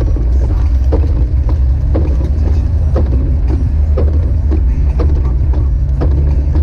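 Jeep Wrangler YJ driving on snowy roads: a steady low engine and road drone, with a regular knock about twice a second.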